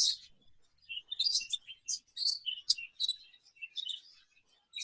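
Exhibition budgerigars chirping: a string of short, high chirps with irregular pauses.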